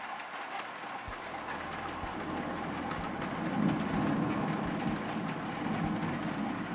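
Thunder rolling over steady heavy rain: a low rumble swells about two seconds in, is loudest near the middle and eases off near the end.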